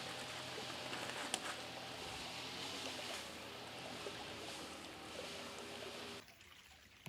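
Shallow creek water running and trickling, a steady rushing hiss with a few small clicks. It drops away abruptly to a much quieter background about six seconds in.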